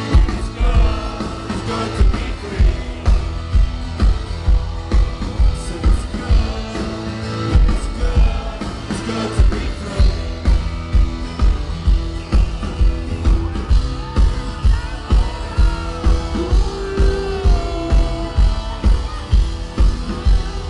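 Live rock band playing, with a steady drum beat of about two hits a second under guitars and sung vocals.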